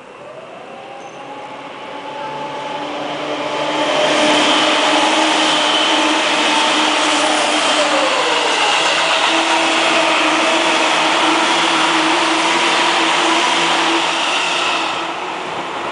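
Yellow Seibu Shinjuku Line electric commuter train approaching and running past at speed, building up over the first few seconds and loud for about ten seconds. Its running noise carries steady motor whines, and one whine drops in pitch about eight seconds in as a car passes. It begins to fade near the end.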